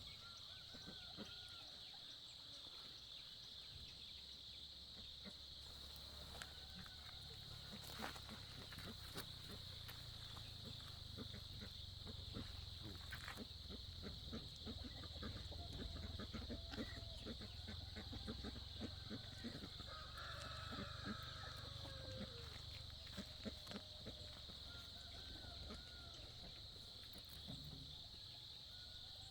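Faint farmyard sounds: chickens clucking now and then over a steady high-pitched hum and a low rumble, with many small scattered clicks.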